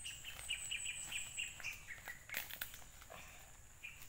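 A bird chirping in a quick run of short, evenly repeated high notes, with a few sharp crinkles of plastic wrapping being handled a little past the middle.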